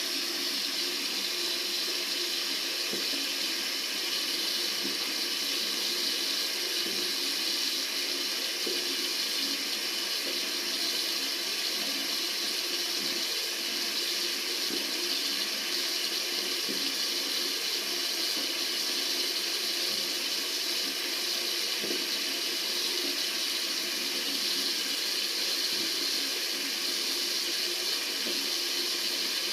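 Tap water running steadily from a faucet into a sink, an even rushing hiss.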